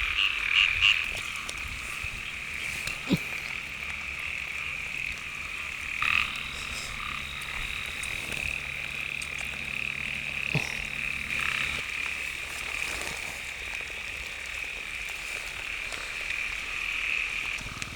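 A dense chorus of many frogs calling without pause, a high, slightly pulsing trill, with a couple of faint knocks. It is a breeding chorus in the rainy season.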